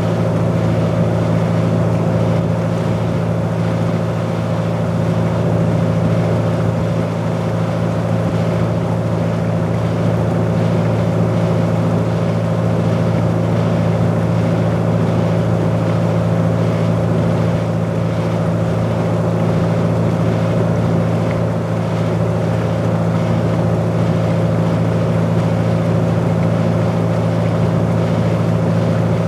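Sightseeing boat's engine running steadily at cruising speed: a constant low drone with a steady higher hum over it, heard from inside the passenger cabin.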